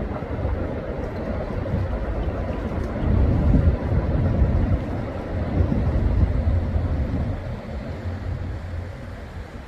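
Steady low rumble of highway traffic on the Interstate 405 overpass. It swells about three seconds in and eases off near the end.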